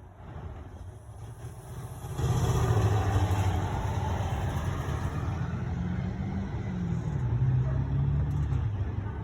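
A motor vehicle driving close by: a low engine hum and tyre noise that grow suddenly louder about two seconds in, hold steady with a slight dip in engine pitch, then fade near the end.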